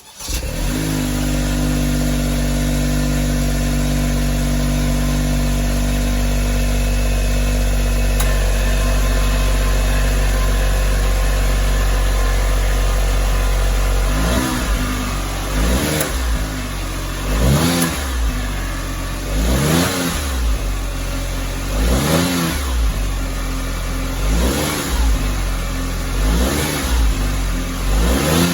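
Honda S660's turbocharged three-cylinder engine idling steadily through its stock muffler, then revved in short throttle blips, about eight of them roughly every two seconds, from about halfway on.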